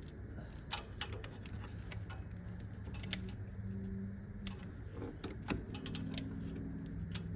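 Irregular light clicks and clinks of hand tools and metal parts being handled while working on a truck's transmission line fittings, over a steady low hum.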